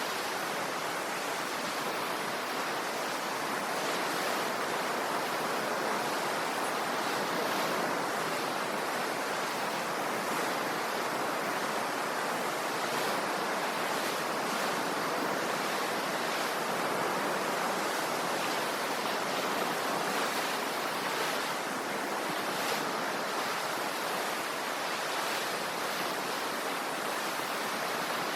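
Ocean waves washing on the shore, an even, steady rush of surf with no separate breakers standing out.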